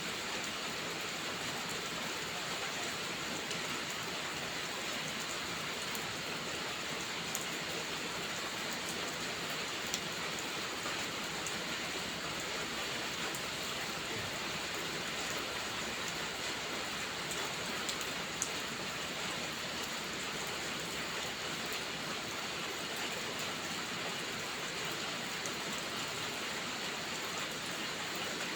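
Steady rainfall, an even hiss with a few small ticks scattered through it.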